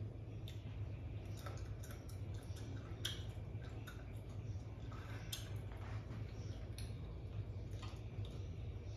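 Chewing small pieces of lime, heard as soft irregular clicks and mouth noises over a steady low hum.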